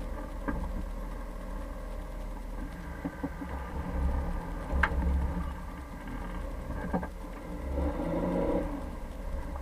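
Jeep Cherokee driving off-road: a steady low engine and road rumble, with a few sharp knocks and rattles, the sharpest about five seconds in.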